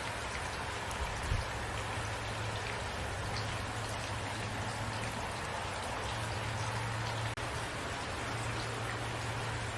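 Steady rain falling, an even hiss with scattered individual drops ticking, under a faint low rumble. The sound cuts out for a split second about seven seconds in.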